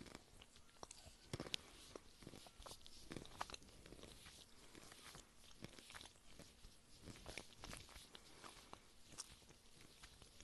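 Close-miked ASMR chewing and biting of crunchy food: irregular soft crunches and small clicks, sharpest in the first couple of seconds, then fainter.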